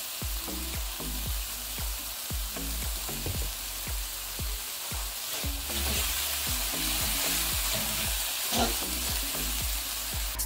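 Diced mushrooms, onion, garlic and ginger sizzling in oil in a hot nonstick frying pan, stirred with a spatula. The sizzle is a steady hiss that turns a little brighter about six seconds in, as the food is stirred.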